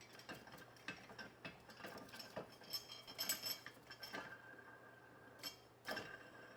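Faint metallic clicks and clinks as the large washer and the adjustment handle of a steel engine support bar are fitted and the handle's screw is started, with one sharper clink near the end.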